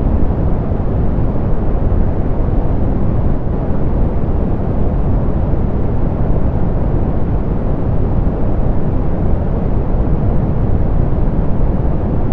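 Steady, softened pink noise: an even rushing hiss, heaviest in the low end and rolled off in the highs, with no change throughout.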